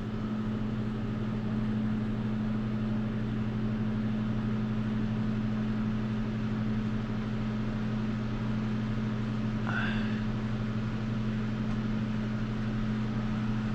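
An electric motor switches on and runs with a steady mains hum over a soft whoosh of air. About ten seconds in there is a brief high squeak.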